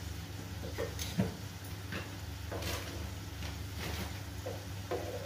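Chopped tomatoes frying in oil in a kadhai, giving a few scattered soft pops and crackles over a steady low hum.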